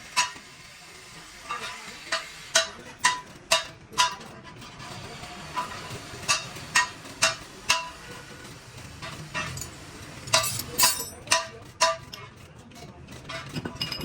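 Hammer blows on a sheet-metal car door panel, about two a second, each with a short metallic ring. They come in runs of four or five with brief pauses between.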